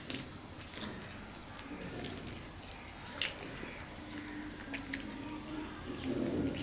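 Close-up eating sounds of a man chewing rice-flour flatbread with mutton curry: wet chewing and sharp mouth and lip clicks, the loudest about three seconds in.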